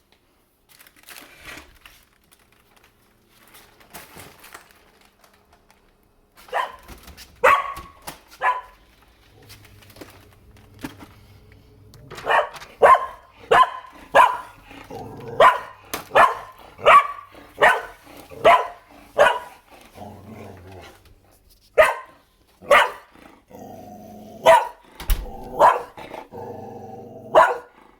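Shetland sheepdog barking at a vacuum cleaner: a few sharp barks, then a fast run of barks about one or two a second, spacing out near the end over a steady lower sound.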